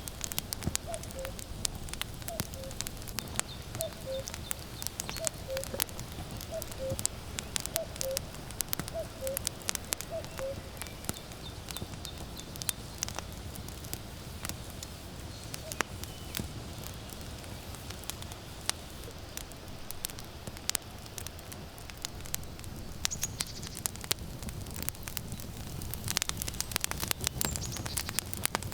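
Wood fire crackling with frequent sharp pops. A common cuckoo calls its falling two-note "cu-coo" about nine times over the first ten seconds.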